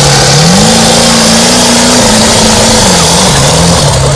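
Pulling truck's engine running loud and hard, its pitch climbing about half a second in, holding, then dropping back and wavering near the end.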